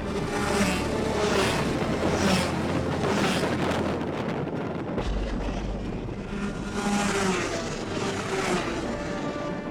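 Rotax 125cc two-stroke racing karts passing one after another, their engine note rising and falling as each goes by. Wind buffets the microphone.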